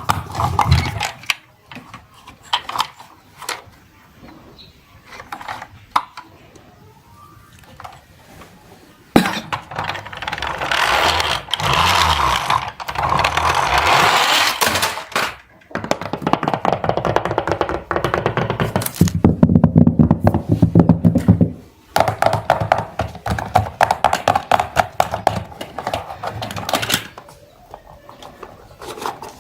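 Plastic toy vehicles clattering: a run of sharp clicks and knocks, then several rattling rolls a few seconds long, each ending in a short gap, like toy cars rolling down a slide.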